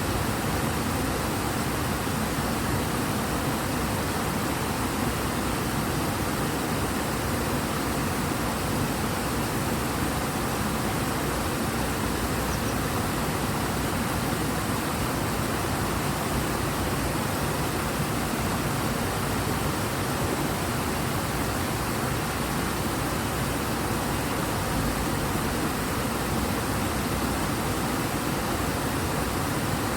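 River water rushing in a strong, fast current: a steady, even rush with no breaks.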